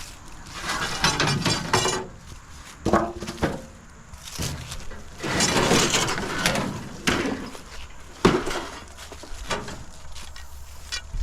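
Scrap metal clattering and clanking as pieces are handled and dropped into a pickup truck bed: several separate bursts of rattling with sharp knocks, some ringing briefly.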